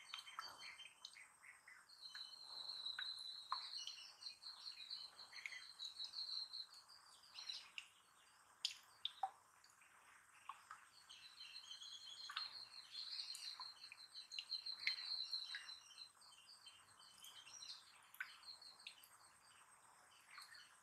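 Faint birdsong: small birds chirping, with a high, rapid warbling trill that runs for several seconds twice.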